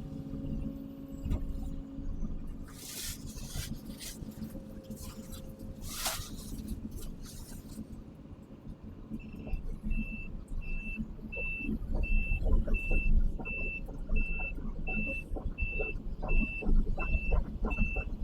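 Case CX220 excavator's diesel engine running, with two short hissing bursts in the first half; about nine seconds in the engine comes up and a travel alarm starts beeping steadily, about three beeps every two seconds, as the machine moves on its tracks.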